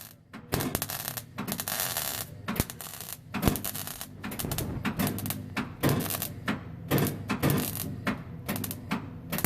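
Welding arc crackling and spitting in short stop-start runs on a thin steel exhaust pipe, the kind of thin pipe that melts through too quickly.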